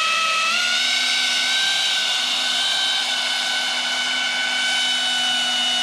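Pro Boat Aerotrooper RC airboat's brushless electric motor and caged air propeller running at high throttle: a loud, steady, high-pitched whine whose pitch rises slightly in the first second or two and then holds.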